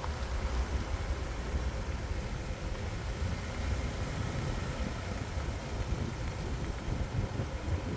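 A vehicle driving along: a steady low rumble of engine and road noise.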